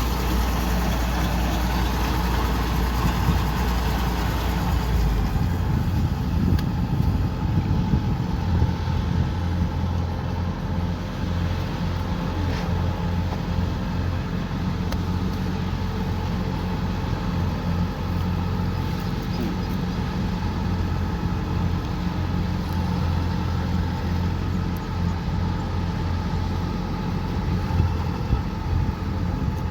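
Kubota combine harvester's diesel engine running steadily with a deep hum; the lowest rumble eases about five seconds in.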